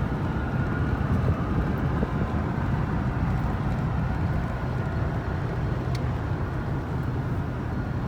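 Steady road and engine rumble inside the cab of a moving pickup truck towing a trailer at highway speed, with a single light click about six seconds in.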